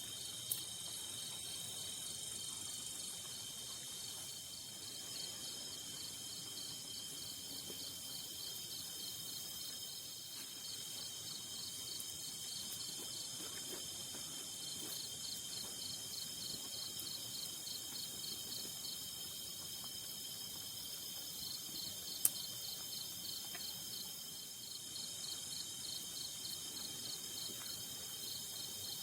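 Night insect chorus in tropical forest: a steady high-pitched drone of several insects overlaid by a fast, pulsing chirp that pauses now and then. A single sharp click sounds just after the start and again about 22 seconds in.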